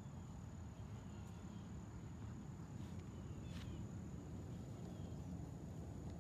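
Faint outdoor ambience: a steady, high-pitched insect drone over a low rumble, with a few faint bird chirps.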